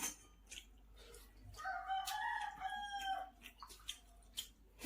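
A rooster crowing once, a single call of about a second and a half near the middle, with a few short clicks before and after it.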